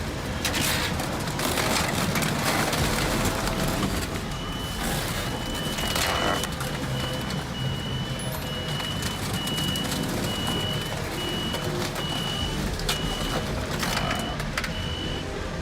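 A heavy vehicle's reversing alarm beeping steadily at one high pitch, about one beep a second, over the low rumble of a diesel engine. The beeping starts about four seconds in.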